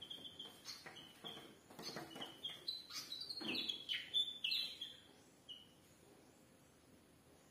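Small birds chirping in a quick, uneven run of short high chirps, mixed with a few sharp clicks; the chirping stops about two thirds of the way through.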